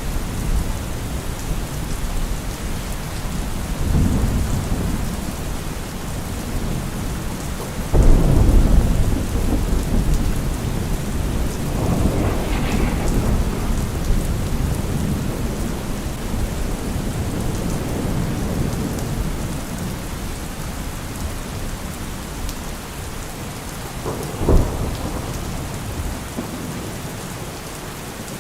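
Steady heavy rain with rolling thunder. A loud crack about a third of the way in is followed by long rumbling, there are softer rumbles before and after it, and a short, sharp clap comes near the end.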